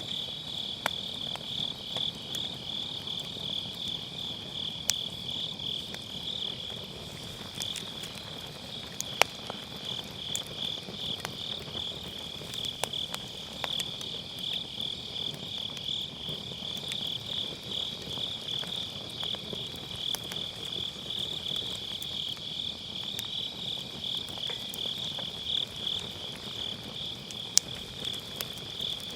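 A dense chorus of night grass insects chirping steadily, with the occasional sharp pop and crackle of firewood burning in a fire pit.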